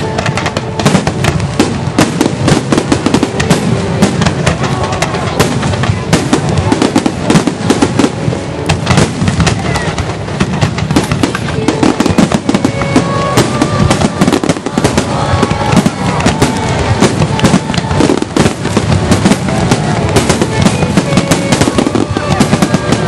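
Aerial fireworks bursting in rapid, continuous succession, a dense run of bangs and crackles with no break.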